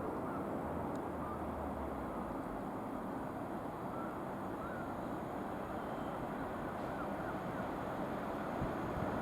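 Steady outdoor rumble with a few faint, short bird chirps over it.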